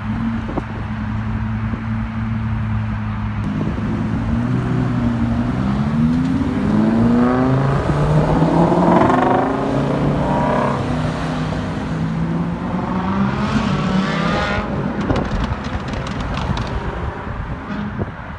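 Car engine idling steadily, then accelerating hard with its pitch rising in several sweeps, loudest about halfway through, and climbing again a little later.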